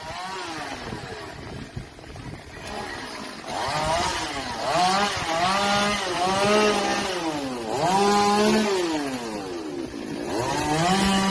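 Chainsaw engine revving up and down again and again, its pitch rising and falling with each rev, louder from about four seconds in.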